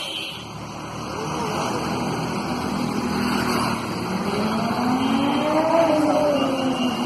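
Triumph Daytona 675R's three-cylinder engine through an Arrow exhaust, rising in pitch and getting louder to a peak about six seconds in, then dropping in pitch as it passes.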